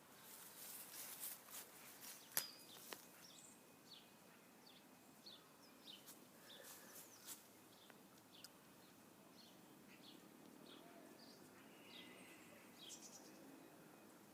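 Small birds chirping faintly, short high chirps repeating about twice a second, over a quiet outdoor hush. Two sharp clicks sound about two and a half seconds in.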